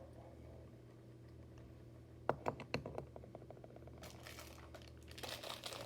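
A few light clicks of small hard objects being handled, then crinkling and rustling from about four seconds in that grows louder, over a steady low hum.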